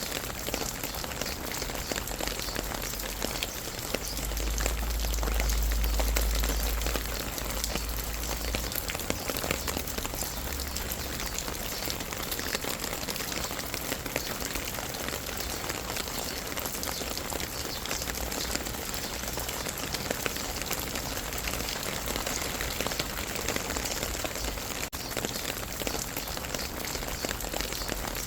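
Steady rain with many individual drops ticking on a surface. A low rumble swells for a few seconds about four seconds in, then fades back under the rain.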